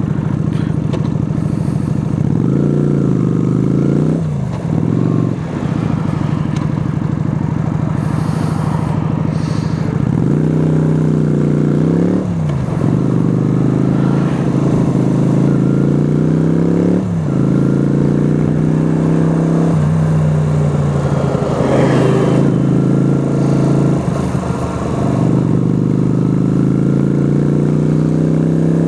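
Yamaha YBR125's single-cylinder four-stroke engine pulling through the gears on the road. The engine note rises with each gear and drops sharply at each shift, over and over.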